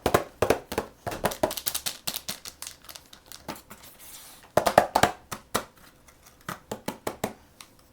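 Plastic blind-bag packaging crinkling and crackling as it is handled by hand, in a run of sharp crackles, with a short tearing noise about four seconds in.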